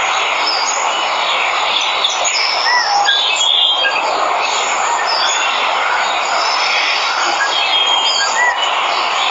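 Waterfall rushing steadily, with many jungle birds chirping and whistling over it in short, scattered calls.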